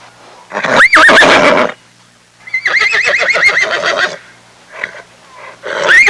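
Horse whinnying: a short call that rises and wavers, then a longer quavering whinny, and a third call starting near the end.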